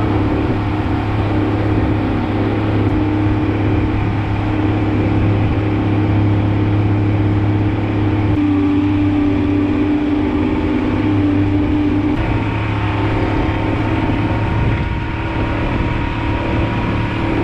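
A small fishing boat's motor runs steadily under way at sea, a continuous drone over the rush of wind and water. Its pitch shifts slightly about eight seconds in and again about twelve seconds in.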